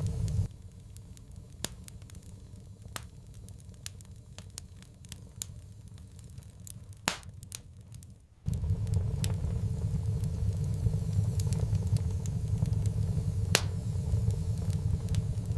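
Wood fire crackling, with irregular sharp snaps and pops, a louder pop about 7 seconds in and another near the end. A low steady rumble under the crackle cuts off suddenly about half a second in and comes back just as suddenly about halfway through.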